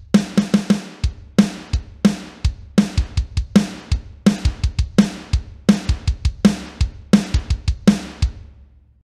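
A drum kit playing a steady beat of bass drum and snare hits that fades out near the end.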